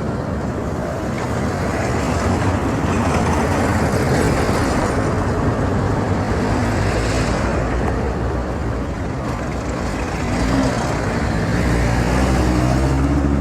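Road traffic: motor vehicles passing on the street, the noise swelling and fading a few times over a steady low rumble.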